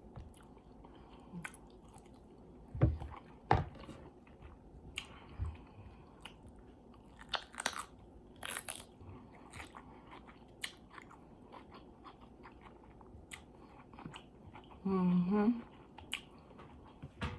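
Close-miked eating: chewing and biting with scattered wet smacks and crunches as rice, sausage and cucumber are eaten, and a short hummed sound about three-quarters of the way through.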